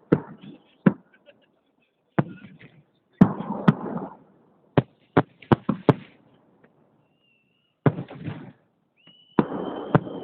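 Holiday fireworks salute: a string of sharp bangs as shells burst overhead, some close together, several followed by a brief crackling rumble. A thin, steady high whistle comes in near the end.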